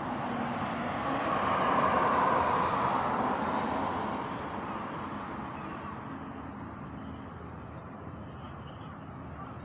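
A road vehicle passing by: a noise that swells for about two seconds, peaks, then fades away over the next few seconds.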